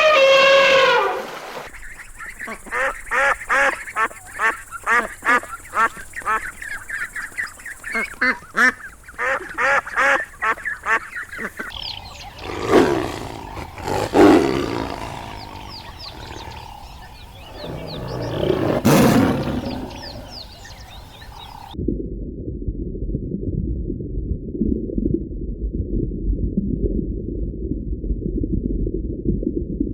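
Ducks quacking in a fast, steady series, followed by a few louder separate calls. About two-thirds of the way through this gives way to a low, muffled noise.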